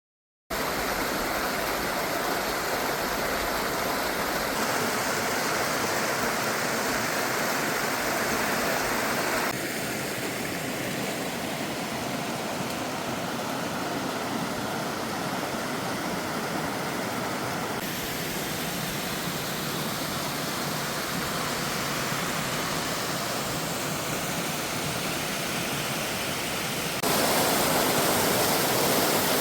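Waterfall pouring with a steady rushing hiss of falling water. The level and tone change abruptly several times, and it is loudest near the end.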